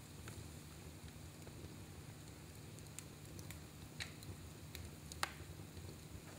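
Fire burning in a fireplace: a low steady rumble with scattered sharp crackles, the loudest pop about five seconds in.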